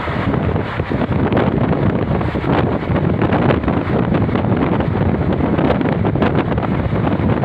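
Wind rushing over the microphone at an open window of a moving train, over the steady rumble of the ride with frequent irregular clacks.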